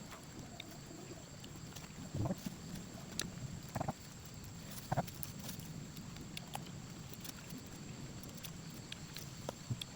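A few scattered soft knocks and rustles over a faint steady background, as food cooked in bamboo is handled and eaten.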